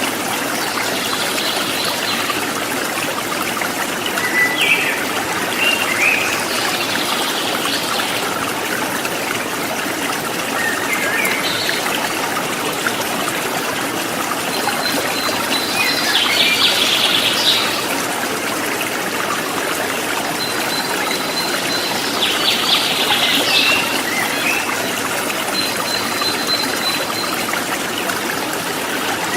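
River water flowing and burbling over rocks, steady throughout. Birds chirp now and then above it, with a thin high whistle held for a second or two a few times.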